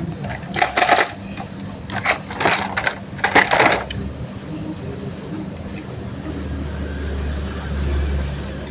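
Plastic toy cars and playset pieces being handled: clusters of clattering clicks and rattles in the first half, then a steadier low rumble that swells near the end.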